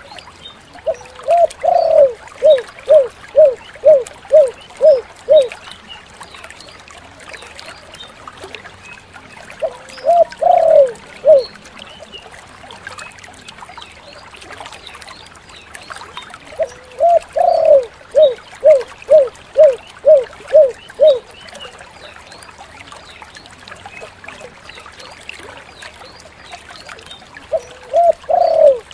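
Spotted dove (tekukur) cooing in its 'kuk 7' pattern: each phrase opens with a rising coo and runs into a string of about seven short, evenly spaced coos. There are four phrases; the second breaks off after a few notes, and the last starts near the end.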